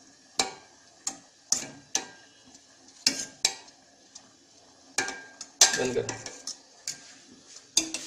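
A spoon clinking and scraping against a metal cooking pot while spreading half-boiled rice over the chicken layer for dum biryani. Sharp, irregular clinks come about once or twice a second, with a longer scrape about six seconds in.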